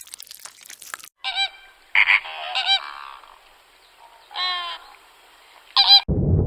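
Goose honking: about five loud, nasal honks in short bursts, after a second of soft crunching noise. Near the end a steady low rumbling noise cuts in abruptly.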